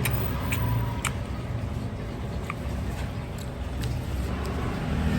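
Steady low rumble of background noise, with a few light, sharp clicks.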